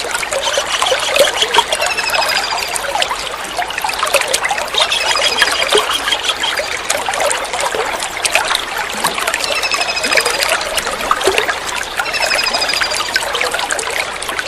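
Kingfisher calls: short, rapid trills of high beaded notes, repeated several times, over a steady trickle of running water.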